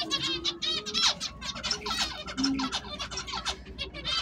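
Many small caged birds chirping together in a dense, rapid chatter of short high notes.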